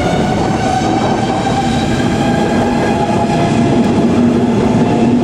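SBB 'Domino' regional train with its RABDe 560 electric motor coach rolling past close by: a steady rumble of wheels on rails, with a whine of several steady tones over it.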